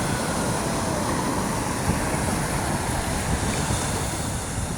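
Steady outdoor noise of wind buffeting the microphone mixed with the wash of surf at the beach, with a low, fluctuating rumble.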